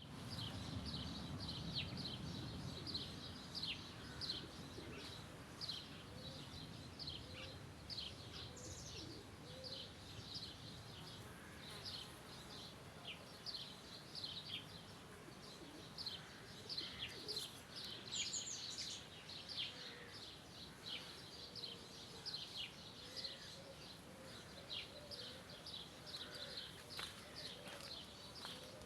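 Birds chirping continuously, a dense run of short high calls, over a faint background hiss; a low rumble fades out in the first few seconds.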